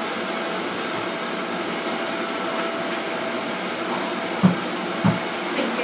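Vacuum cleaner (hoover) running steadily with a constant motor whine, and two dull low thumps about four and a half and five seconds in.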